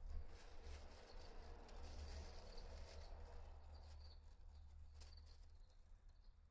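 Near silence: faint scattered clicks and light rustles over a low steady rumble.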